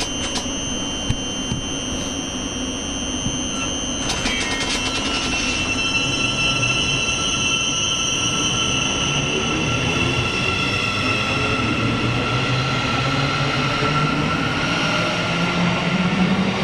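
A train approaching along the track: its running noise and a high, steady whine slowly grow louder, with a deeper rumble building near the end.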